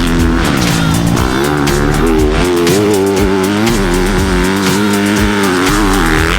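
Dirt bike engine running steadily under throttle, its pitch wavering up and down, with background music.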